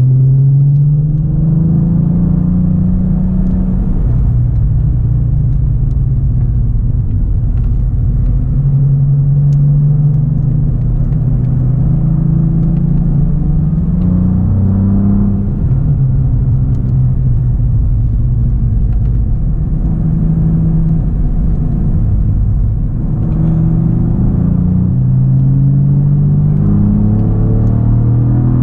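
Cadillac CT4-V Blackwing's twin-turbo 3.6-litre V6, heard from inside the cabin, pulling in third gear. Its pitch climbs, holds and eases back several times as the throttle is worked. A steady low road and tyre rumble runs underneath.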